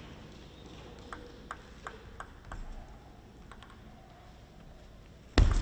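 A table tennis ball bouncing, a string of faint light clicks about 0.4 s apart, in a quiet hall. Near the end comes a sudden loud thump.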